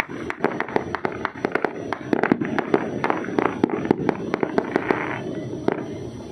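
Fireworks going off in rapid succession: many sharp bangs and crackles over a continuous din, thinning a little near the end.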